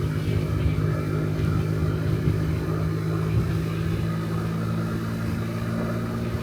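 50cc Honda Dio Cesta scooter engine running steadily at cruising speed, with wind rumbling on the microphone.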